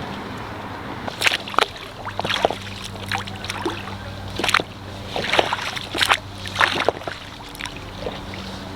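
Water splashing and sloshing around a small dinghy in irregular bursts, over the low steady hum of its outboard motor running slowly.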